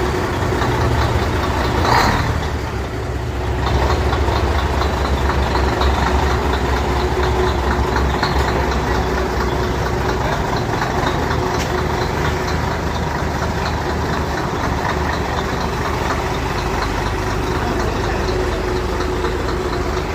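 Truck's diesel engine running steadily with a low drone and a faint steady tone above it. A brief sharp sound cuts in about two seconds in.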